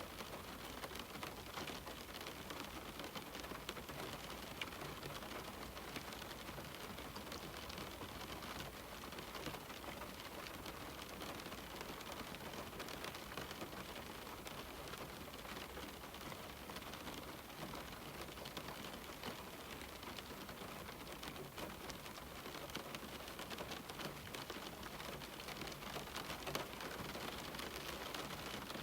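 Steady rain falling on a window: an even hiss threaded with many small, irregular drop taps.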